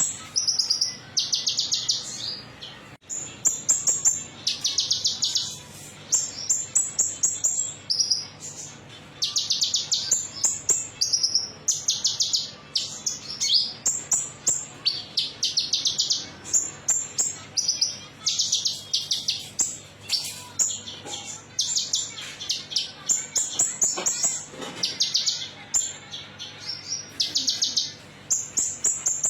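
Konin metalik songbird singing: high, fast trilled phrases about a second long, repeated every second or two and mixed with sharp single chirps, as played in a lure-call recording.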